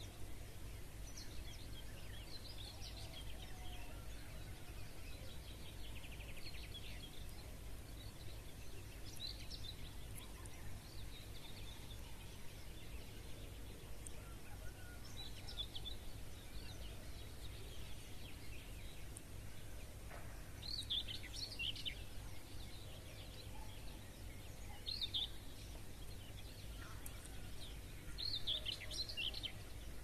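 Several songbirds singing short, scattered chirps and trills, a few louder phrases standing out in the second half, over a steady low background rumble.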